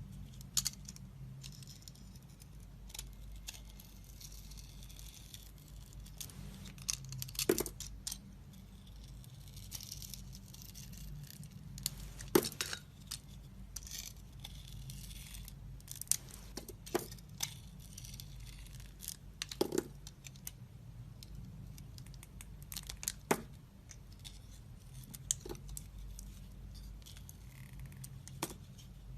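A knife carving a bar of soap: short scraping, shaving strokes and scattered sharp clicks, over a steady low hum.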